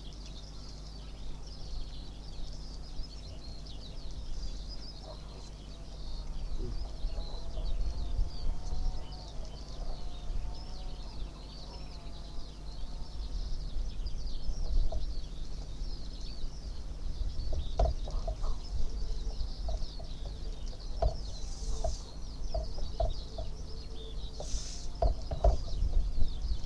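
Birds calling, with a steady high twittering throughout. Lower wavering calls come in the middle, and short repeated calls follow in the second half, all over a low rumble.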